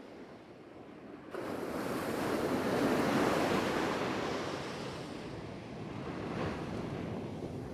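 Ocean surf: after a sudden jump in level about a second in, a wave's rush swells and then eases off, with wind buffeting the microphone.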